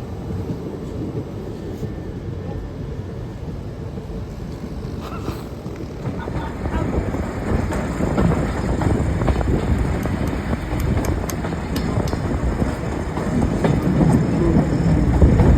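A train running through the station, growing louder from about six seconds in, with wheels clicking over the rail joints.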